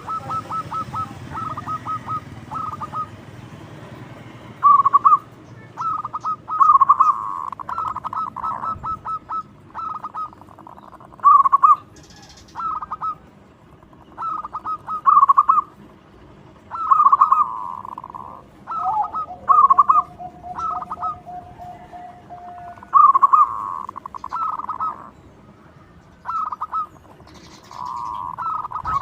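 Zebra dove (perkutut) cooing loudly in repeated phrases, each a quick run of stuttering notes followed by a longer coo, with short pauses between phrases.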